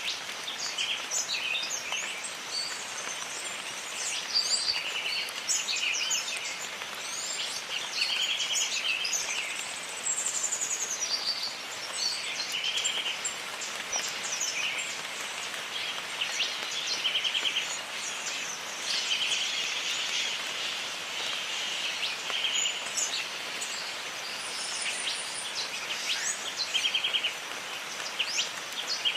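Jungle ambience: a steady hiss of rain under many birds calling, with a short buzzing trill repeated every few seconds and scattered high whistles.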